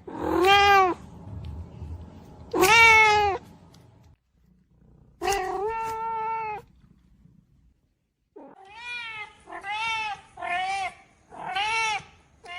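Cat meowing, about seven meows in all, most of them short with the pitch rising and falling, the third one longer and held level.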